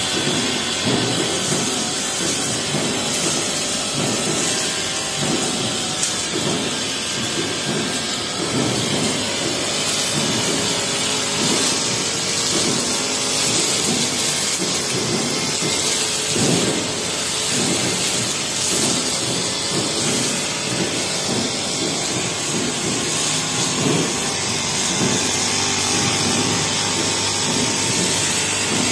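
Honda four-stroke brush cutter with a metal blade running at speed, cutting through tall grass, with many short ticks and knocks from the blade.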